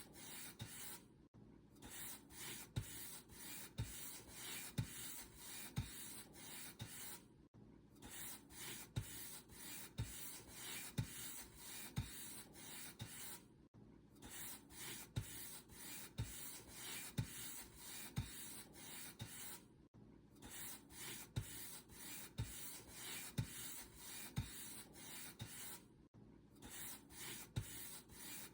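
Paint brush bristles stroked repeatedly across a surface: a steady scratchy swishing with a soft thump at each stroke, broken by a short gap roughly every six seconds.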